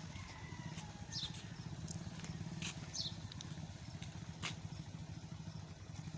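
An engine running steadily with a fast, even beat, and a few short, high, downward chirps from small birds over it.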